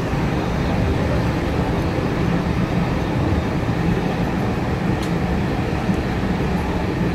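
Heritage railway carriage running along the track, heard from inside the compartment: a steady rumble of wheels on rails, with a faint tick about five seconds in.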